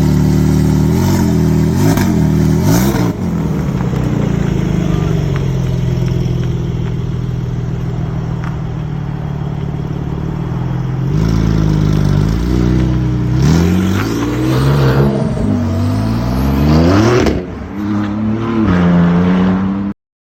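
Porsche 992 Turbo S twin-turbo flat-six, breathing through Soul downpipes and an Akrapovic titanium exhaust, idling and being revved: three quick throttle blips at the start, a steady idle, then a longer series of revs about eleven seconds in. The sound cuts off abruptly near the end.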